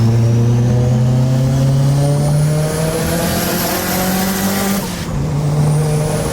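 Mitsubishi Lancer Evolution IV's turbocharged four-cylinder engine accelerating hard, its pitch climbing steadily through a gear with a high whine rising along with it. About five seconds in the pitch drops for a quick upshift, and it climbs again.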